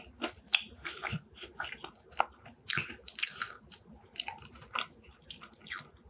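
A person chewing a mouthful of shawarma-topped fries: a run of short, irregular mouth clicks and smacks.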